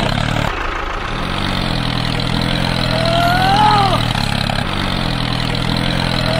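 Vehicle engine idling steadily, with one rising-then-falling whistling glide about three seconds in.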